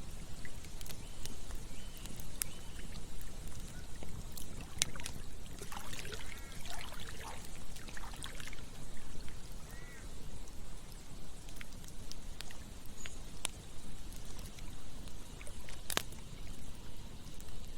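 Campfire crackling, with scattered sharp pops (the loudest about five and sixteen seconds in), over the steady rush of running water. Between about six and eight seconds in, a short run of higher gurgling sounds rises above the flow.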